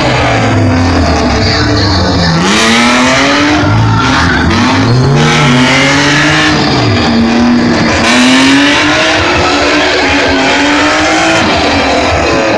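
Stunt vehicle's engine revving hard, its pitch climbing and dropping again and again as the driver works the throttle.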